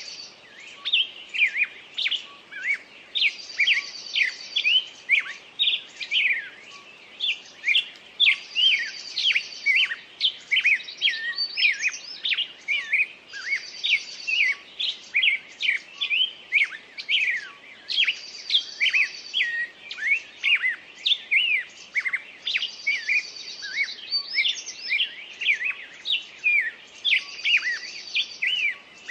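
Birdsong: many birds chirping and trilling quickly, with a high buzzy trill coming back at even intervals about every five seconds, as in a looped nature-sound recording laid over the footage in place of the wind noise.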